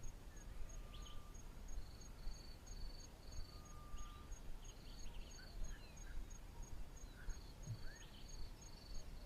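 Faint bush ambience: insects chirping in repeated short high trains over a steady faint ticking about twice a second, with a few brief bird chirps and a low background rumble.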